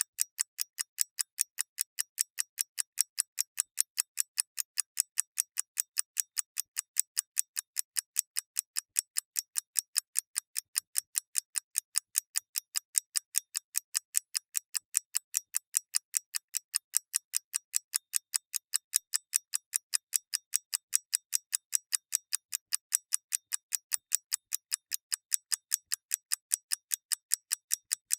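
Mechanical clock ticking: crisp, sharp ticks, very even, about three a second.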